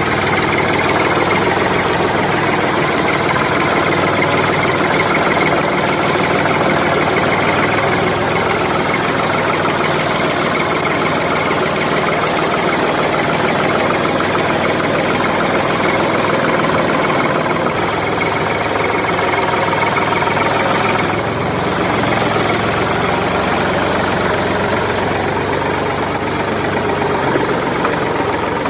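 An engine running steadily at idle, dense and unvarying, with a brief dip about 21 seconds in.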